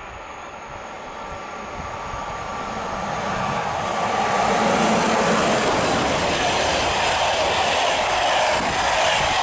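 EP09 electric locomotive hauling a train of passenger coaches, approaching and passing close by: the rushing of wheels on rails builds over about four seconds, then stays loud as the coaches go past.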